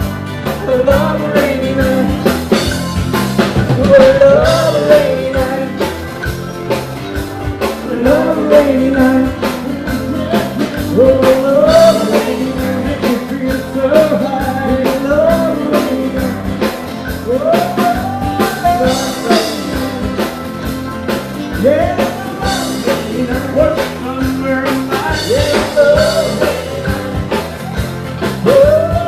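Band playing an upbeat rock-and-roll song with drum kit, bass and a lead melody line in short repeated phrases.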